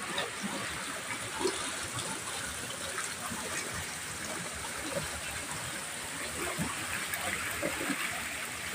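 Steady flowing water, a stream-like rush with small gurgles and splashes, as at the water channel of a traditional water-powered flour mill.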